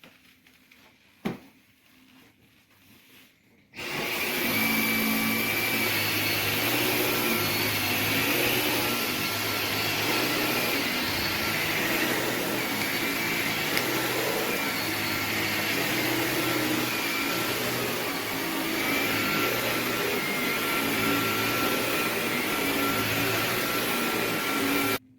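Dyson Gen5outsize cordless stick vacuum switching on about four seconds in and running steadily with a high whine, then cutting off suddenly near the end. A single click comes a few seconds before it starts.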